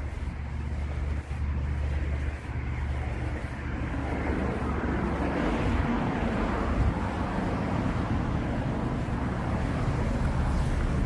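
Evening street ambience: a steady low traffic rumble with wind buffeting the microphone. About four seconds in, the traffic noise swells louder, as of vehicles passing close by, and stays up.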